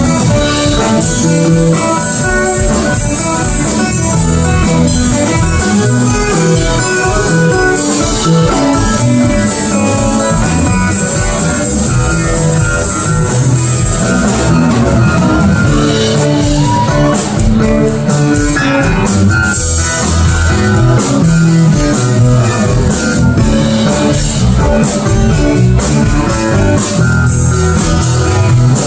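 Live band playing a guitar-led instrumental passage over bass and drums.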